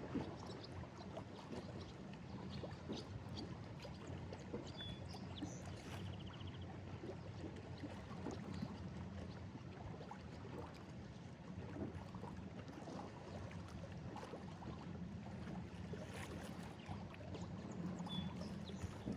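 Small waves lapping and splashing against a rocky break wall on Lake Erie, an uneven wash of water with many little slaps and gurgles.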